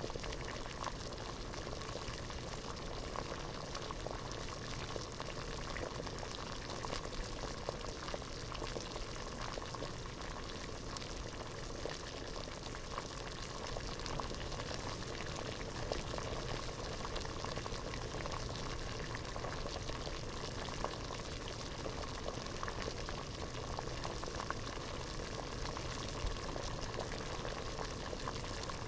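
Water at a rolling boil in a pot: a steady, dense bubbling with many small pops and ticks.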